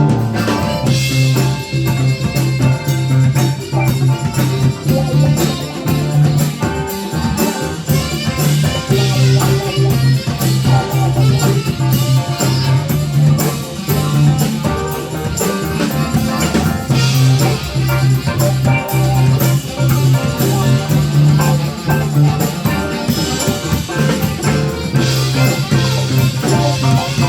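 A band playing an instrumental passage, with a drum kit keeping a steady beat under a prominent, repeating bass line.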